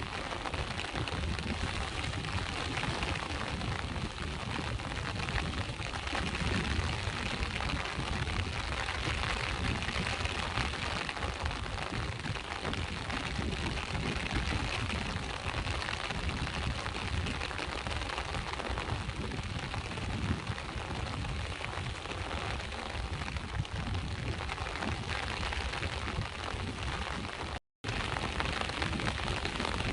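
Steady rain mixed with sea waves washing against the shore, a continuous hiss with a deep low rumble underneath. The sound cuts out completely for a split second near the end.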